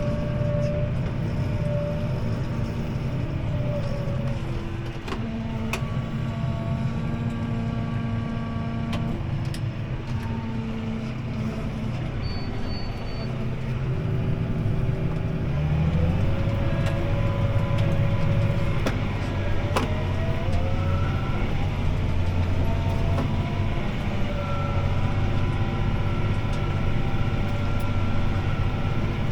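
CLAAS ARION 650 tractor's six-cylinder diesel engine and drivetrain running steadily under load, heard from inside the cab while pulling a disc harrow. About halfway through the sound grows louder and heavier, and a short rising whine follows.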